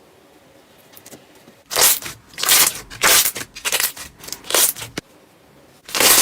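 Slime being squeezed and pressed by hand: about five short crackling squishes in quick succession, a brief pause, then another near the end.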